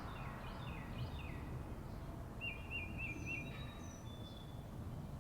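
Several birds singing over a steady low background rumble: a few quick falling chirps early, a short run of about four repeated notes near the middle, and thin high whistles later.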